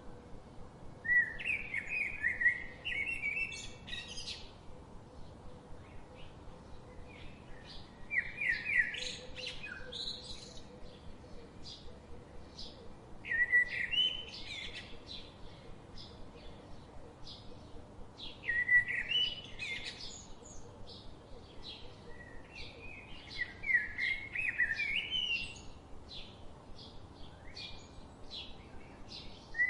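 A songbird singing the same short phrase over and over, about every five seconds. Between the phrases there is a steady run of short high ticks, about three a second.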